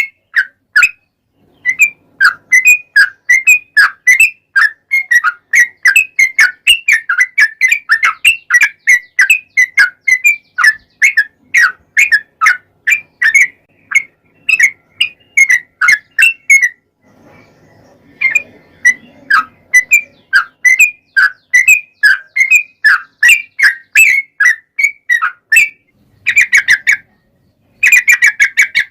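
Yellow-vented bulbul (trucuk) singing a long run of quick, clear whistled notes, each slurring downward, about three a second. The run breaks off briefly in the middle and twice near the end.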